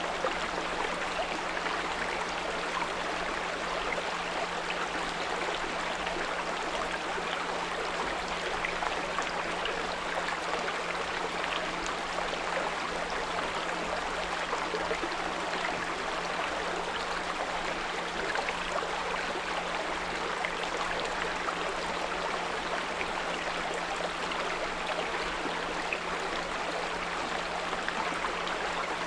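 A small brook running steadily, with a constant low 174 Hz pure tone mixed in underneath.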